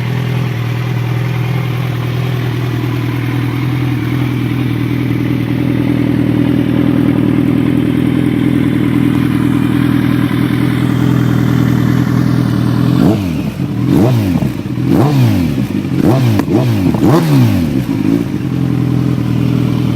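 2010 Kawasaki Z1000's inline-four engine idling steadily through an Akrapovic aftermarket exhaust. Several quick throttle blips start about two-thirds of the way in, each a sharp rise and fall in pitch, and then it settles back to idle near the end.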